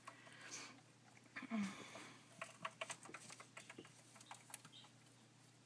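Irregular light clicks and taps of computer keyboard keys, scattered over a few seconds, with a brief low voice sound about a second and a half in.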